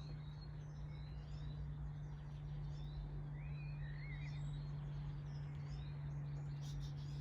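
Garden birds chirping and calling in short, scattered phrases over a steady low hum.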